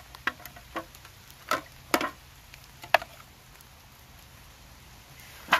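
A handful of sharp metal knocks and clicks from an old tin first aid box being handled and prised open, several in the first three seconds and one louder knock near the end.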